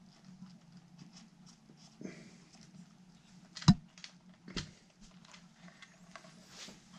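Small clicks and taps of hands and tools handling guitar parts on a workbench, with a sharp knock a little over halfway through and a second one just after, over a steady low hum.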